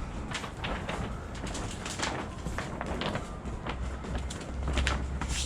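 Gusty wind rumbling on the microphone, louder after about four seconds, with irregular crackling and rustling over it.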